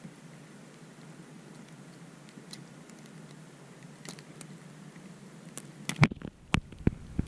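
Light pattering ticks over a steady hiss, then a few sharp knocks about six seconds in.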